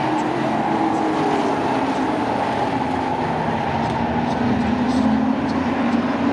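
Sport trucks racing on a short oval track, several engines running hard together at speed. The sound swells about five seconds in.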